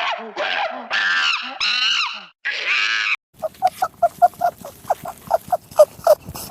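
Animal calls: a run of loud, wavering pitched cries each about half a second long, then from about three seconds in a quick series of short grunting calls, about five a second.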